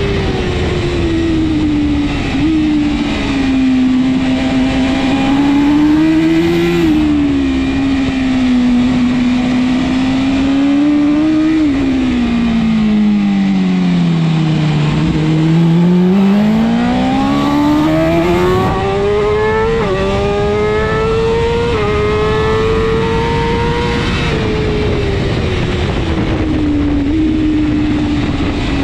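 BMW S1000RR inline-four superbike engine at race pace, with wind noise. The engine note drops in steps through downshifts, bottoms out about halfway through for a slow corner, then climbs in quick upshifts back to high revs, and eases off again near the end.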